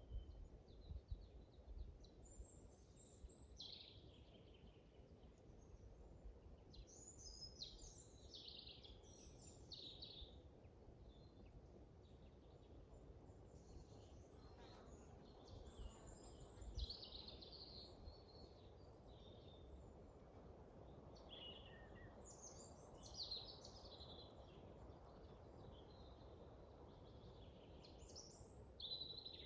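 Faint forest songbirds chirping and calling in several short spells, over a faint low rumble.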